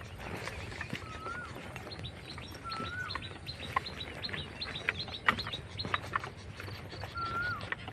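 Wild birds calling: a short whistled note that rises and drops, repeated about four times, and a quick run of high thin chirps in the middle. A few sharp clicks stand out near the middle.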